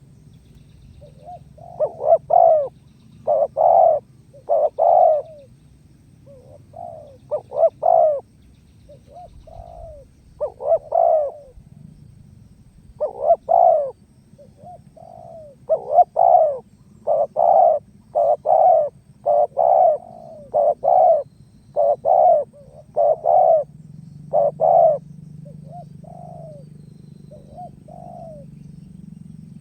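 Spotted dove (tekukur) cooing: phrase after phrase of deep coo notes, the calling song that bird-trappers use as a lure, with short pauses between phrases. A faint low hum runs underneath.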